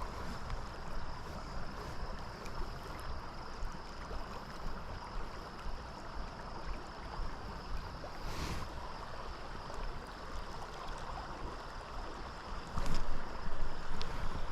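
Steady rush of river current around a small inflatable raft, with wind on the microphone and a few brief noises scattered through it.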